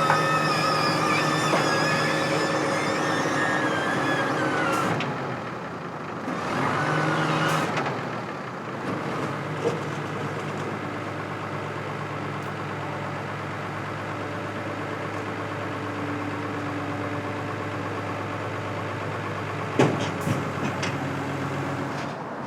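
Motor vehicle engine running steadily, with a high wavering whine over it for the first five seconds that falls away and stops. A short rise around seven seconds in, then a sharp knock near the end.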